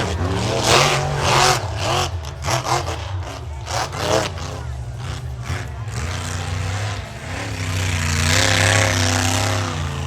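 Monster truck engines revving hard during a side-by-side race, the pitch rising and falling sharply with the throttle, with sharp cracks and bangs through the first half.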